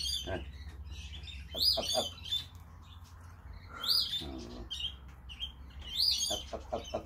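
A bird repeating a short, sharp, high-pitched call about every two seconds.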